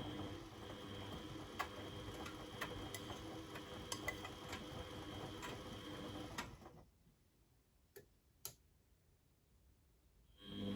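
Beko WMD 46160 washing machine tumbling the drum on a 90°C boil wash: the motor runs with a steady whine and scattered light clicks for about six and a half seconds, then stops. During the pause there are two sharp clicks, and the motor starts turning the drum again near the end, the turn-and-pause rhythm of the wash phase.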